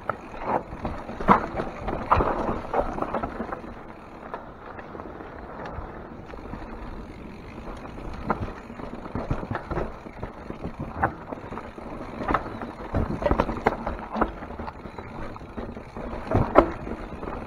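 Mountain bike descending a rocky trail: tyres rolling and crunching over dirt and rock, with irregular sharp clacks and knocks from the bike jolting over the bumps.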